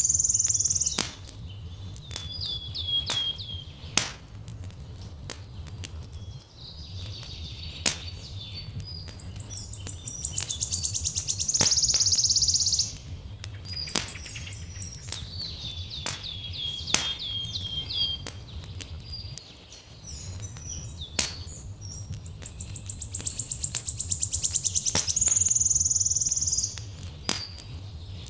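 A songbird repeating the same phrase three times, about every twelve seconds: a high buzzing trill that swells and cuts off, then a quick falling series of chirps. Underneath, a wood fire crackles with scattered sharp pops over a steady low rumble.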